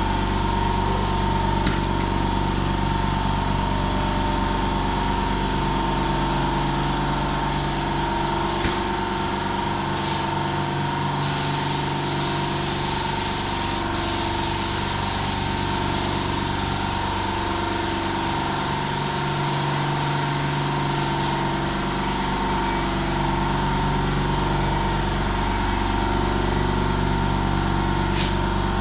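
A motor, most likely an air compressor, runs with a steady hum. Over it a paint spray gun hisses: two short bursts a little under halfway in, then about ten seconds of continuous spraying.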